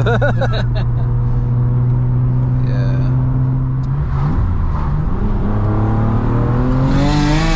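Single-turbo BMW N54 3.0-litre inline-six, heard from inside the cabin, running steadily at cruise, then pulling harder with its engine note rising from about halfway through. A loud rushing hiss joins near the end.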